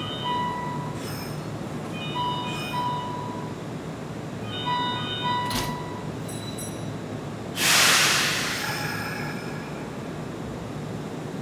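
Kintetsu commuter train standing at a terminal platform and readying to depart: a two-note chime rings three times about two seconds apart, a sharp click follows, and then a loud sudden hiss of air, as from brakes being released, fades over a couple of seconds, all over a steady low hum.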